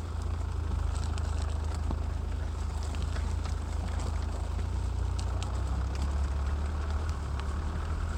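Motocross bike engine running at a steady low drone, mixed with some wind noise on the microphone.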